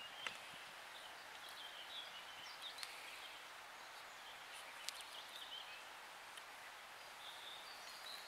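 Faint birdsong over a steady hiss, with three sharp clicks; the loudest comes just after the start.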